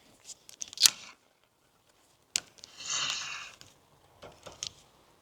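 Fishing tackle being handled while getting ready to cast: a few sharp clicks and a brief rustle.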